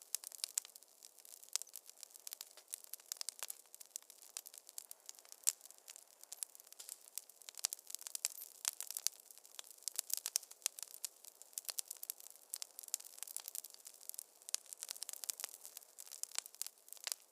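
Wood fire crackling in a fireplace: many quick, irregular pops and snaps over a faint hiss.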